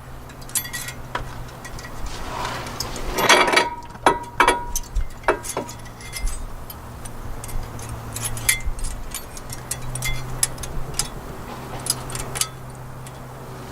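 Scattered light metallic clicks and clinks of small steel brake-pad hardware clips being handled and fitted into a caliper bracket, busiest about three to five seconds in, over a steady low hum.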